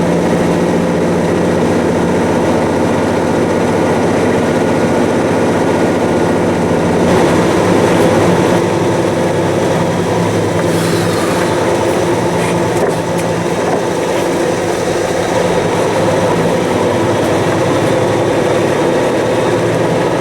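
Peterbilt 379 semi truck driving on the highway, heard from the cab: a steady drone of the diesel engine and road noise, which shifts slightly about seven seconds in.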